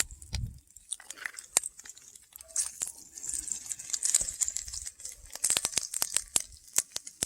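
Hot grease sizzling and popping in a cast iron skillet over an open fire, with many scattered sharp pops and crackles.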